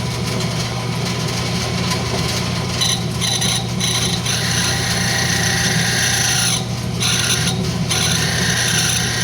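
Wood lathe running with a steady motor hum while a turning tool cuts a rosewood tenon, making a continuous scraping hiss. The cutting noise stops briefly twice, about seven seconds in, as the tool comes off the wood.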